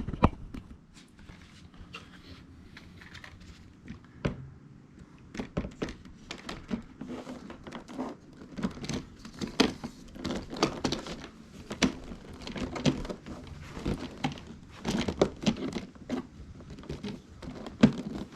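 Car door trim panel and its plastic window-switch pack being handled and worked on: irregular clicks, knocks and rattles of plastic parts, sparse at first and coming thick and fast from about five seconds in.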